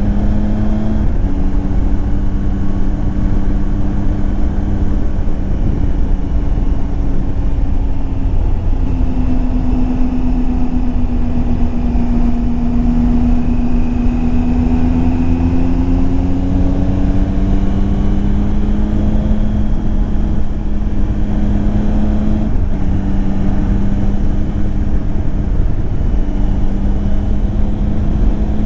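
Triumph Tiger 800 XCX's three-cylinder engine running under way, its pitch stepping and drifting a few times as the bike changes speed and gear. A heavy low rush of wind and road noise runs over the microphone throughout.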